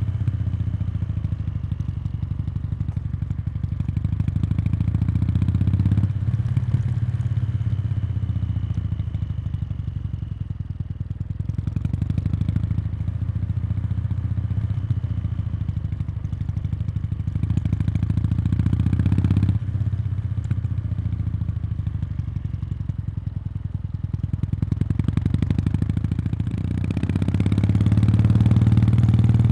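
Meguro K3's air-cooled parallel twin running through its stock exhaust, heard close to the muffler outlet. The low, pulsing exhaust note swells and eases with the throttle several times, with a sudden drop about twenty seconds in and a rise again near the end.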